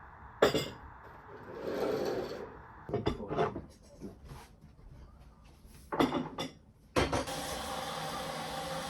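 Dishes and cutlery clattering as they are handled, with sharp knocks about half a second in, around three seconds and around six seconds. Near the end a tap is turned on and water starts running steadily.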